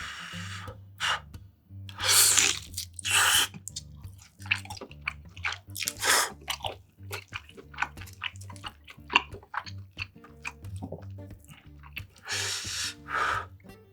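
Close-miked chewing and biting of food: a run of short wet, crunchy mouth sounds with a few louder bites about two seconds in and near the end, over quiet background music.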